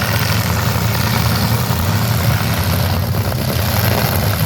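Demolition derby car engines running steadily together, a continuous low engine sound under a noisy wash.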